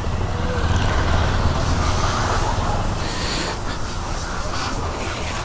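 Motorcycle being ridden in city traffic: its engine running steadily under road and wind noise.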